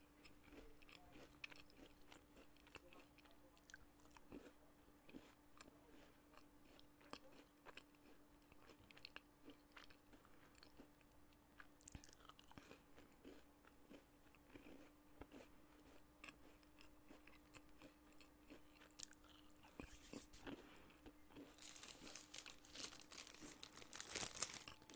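Faint, close-miked chewing and biting of a stroopwafel: soft crunches and mouth clicks. Near the end a plastic snack packet crinkles as it is handled, the loudest sound here.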